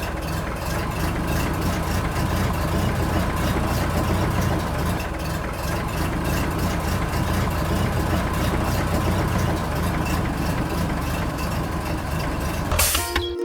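An engine running steadily at idle, with a faint regular ticking about two to three times a second. Near the end it cuts off abruptly to music.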